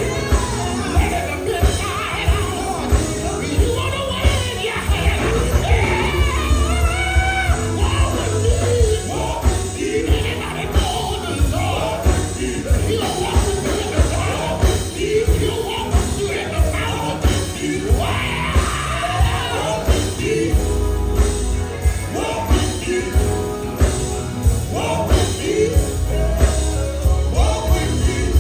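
Live gospel band playing with a lead singer's voice over it, bass and drums keeping a steady beat.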